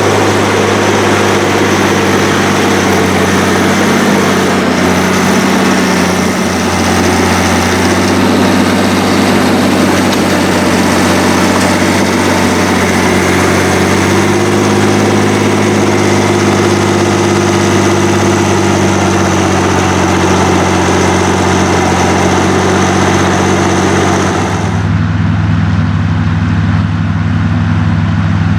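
Heavy diesel engines of a crawler and a big tractor running steadily under load while deep plowing. About 25 seconds in, the sound turns duller and deeper, the higher hiss dropping away.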